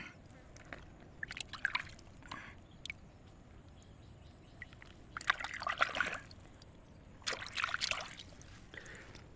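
Water splashing and trickling in a few short, irregular bouts, the longest about five and seven and a half seconds in.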